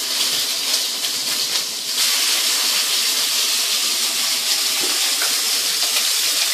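Soy-sauce-marinated chicken wings frying in hot canola oil in a wok: a steady sizzle that dips slightly, then picks up again about two seconds in as more pieces go into the pan.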